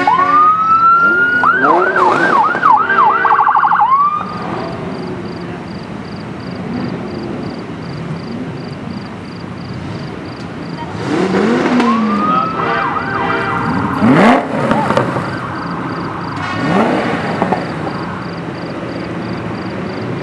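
Police car siren sounded in short bursts: a rising wail, a few quick up-and-down yelps, then a fast warble, cutting off about four seconds in. A second burst of siren comes around eleven to fourteen seconds in, along with engines revving.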